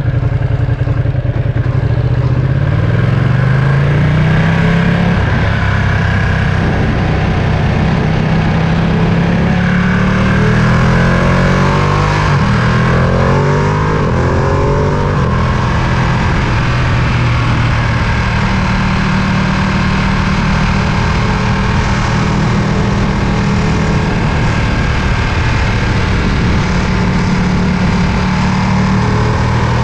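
Ducati Panigale V2's 955 cc Superquadro V-twin engine under way, its revs rising in several pulls through the first half, then holding steady at a cruise.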